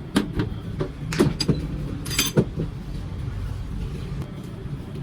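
Several sharp metal knocks and clanks over a steady low machine hum. One clank, a little after two seconds in, rings with a bright metallic tone. After that only the hum goes on.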